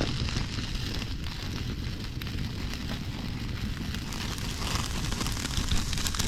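Open cooking fire crackling steadily, with a dense run of small pops.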